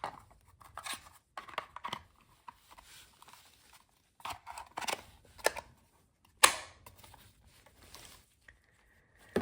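Plastic handling sounds of a battery pack being fitted to a small cordless chainsaw: scattered scrapes and light clicks, with one sharper click about six and a half seconds in.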